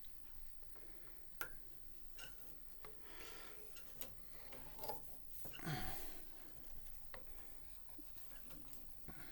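Light handling sounds of a cord being worked around piano parts: scattered small clicks and rubbing, with a louder rub about six seconds in.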